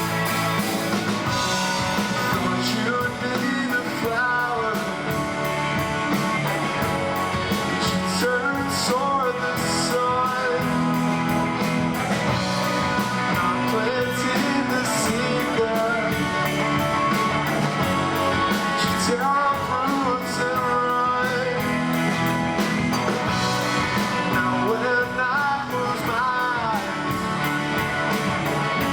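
Live rock band playing: guitars and rhythm section under a melodic lead line that bends and glides in pitch.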